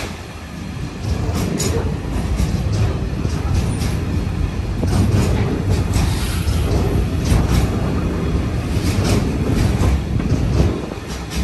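Freight train of intermodal container flat wagons rolling past close by: a heavy low rumble of wheels on rail with irregular metallic clicks and clanks, easing off near the end.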